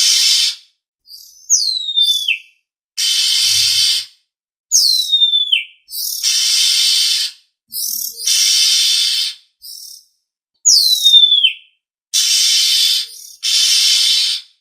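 Oriental magpie-robin (kacer) calling. Harsh, rasping churrs about a second long alternate with three clear whistles that slide steeply down in pitch.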